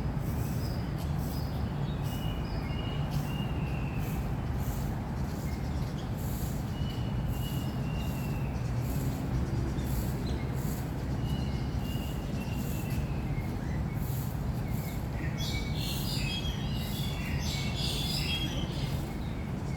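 Birds calling in a park: short whistled notes come every second or so, and a busier spell of chirping starts about fifteen seconds in. Under them runs a steady low rumble of distant city traffic.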